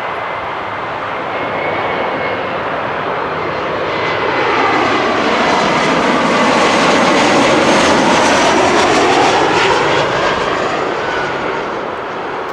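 Jet airliner on approach to land passing close by: its engine roar swells to a peak about two-thirds of the way through, then fades as it goes past.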